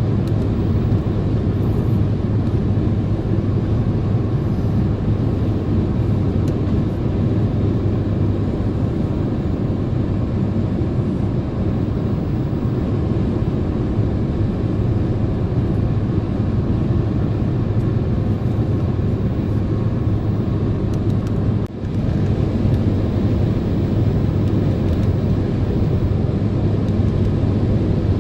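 Steady road and engine noise heard inside a car's cabin while cruising at highway speed, with a strong low drone. It dips briefly once, about three-quarters of the way through.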